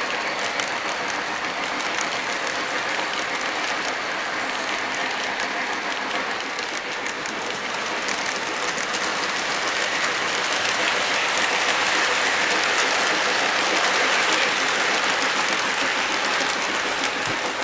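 O-gauge model trains running on the layout track: a steady hiss of rolling wheels with a fast scatter of rail clicks, swelling a little past the middle.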